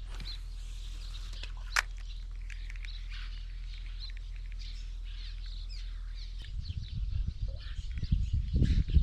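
Small birds chirping and calling over a steady low hum, with one sharp click about two seconds in. From about six and a half seconds, uneven low rumbling noise comes in under the birdsong.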